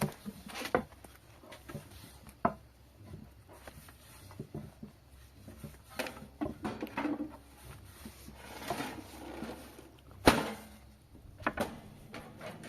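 Irregular knocks, clatter and rustling, as of hard household things being handled and set down, with one sharp loud knock about ten seconds in.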